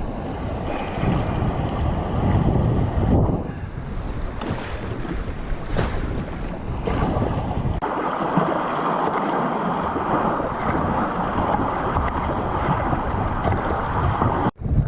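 Wind buffeting the microphone over the wash of sea waves around a sea kayak. The sound shifts abruptly twice and drops out for an instant near the end.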